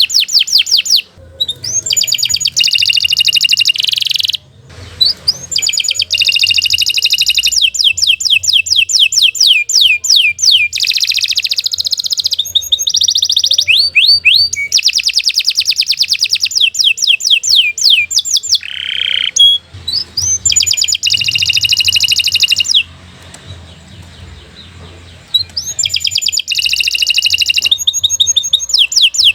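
Domestic canary singing long phrases of fast trills, strings of rapidly repeated high notes, broken by brief pauses. One longer pause comes about two-thirds of the way through.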